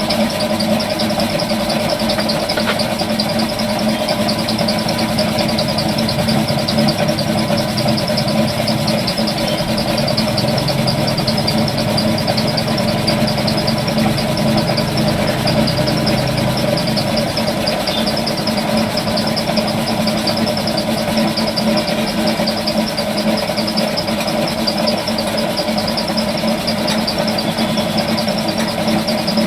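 A motor or engine running steadily with a constant hum, with no change in speed.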